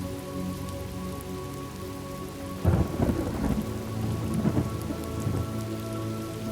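Thunderstorm: steady rain with a sudden thunderclap a little under halfway through that rumbles on for a few seconds.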